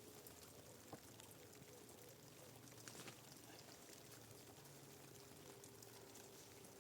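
Near silence: faint hiss with a couple of faint ticks.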